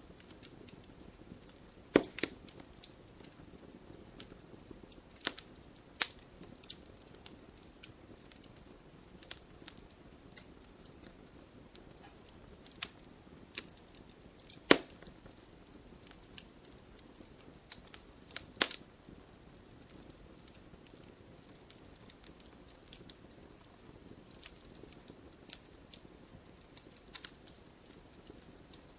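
Wood fire in a fireplace crackling, with a soft steady hiss under irregular sharp pops, a few of them louder and spread out across the stretch.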